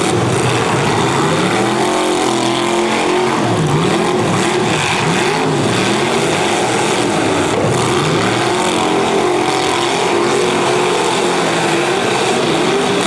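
Several derby cars' V8 engines revving at once, their pitches rising and falling over one another as the cars accelerate and back off.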